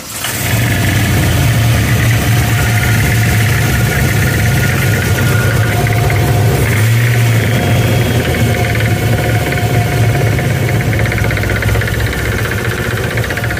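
Camaro engine idling with a rapid, steady knocking clatter, a terrible noise first feared to be a rod knock. The cause is a crank pulley bolt backed out of the crankshaft, letting the bottom pulley of the March Performance pulley kit flex.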